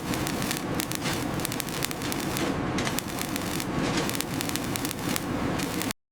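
Dense clattering din with many sharp knocks, typical of construction work. It cuts off abruptly near the end.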